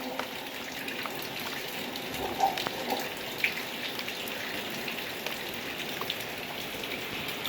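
Steady rain falling, with individual drops pattering close by and a couple of louder drops about two and a half and three seconds in.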